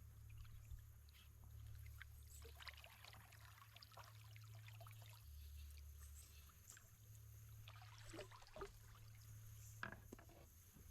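Faint splashes and trickles of water around a kayak, the paddle dipping and dripping, over a low steady hum.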